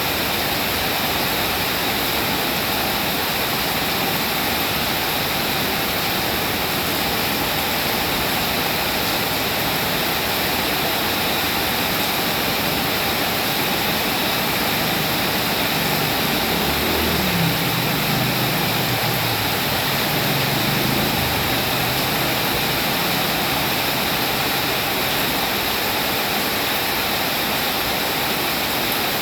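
Steady rain falling, an even hiss. A low rumble swells and fades for a few seconds past the middle.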